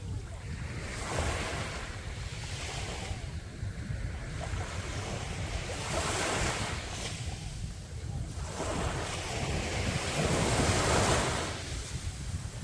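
Sea waves breaking and washing up on a beach, swelling and fading every few seconds, with the biggest near the end. Wind rumbles on the microphone underneath.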